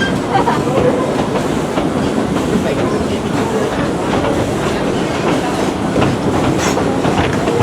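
Dollywood Express passenger car rolling along the track: a steady rumble of the wheels on the rails.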